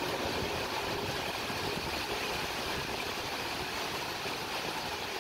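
A passenger train recedes into the distance, leaving a steady, even rushing rumble of wheels on rail that fades slightly and then holds low.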